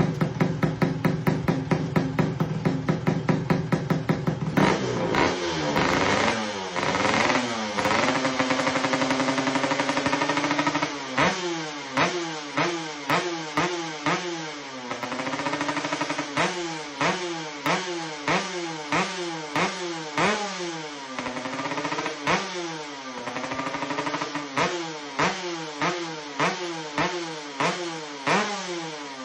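Kawasaki Ninja motorcycle with an open Serpico racing exhaust idling with a fast, even beat, then revved up and down in long sweeps. It then gets blipped sharply over and over, about a dozen quick revs that each rise and fall back.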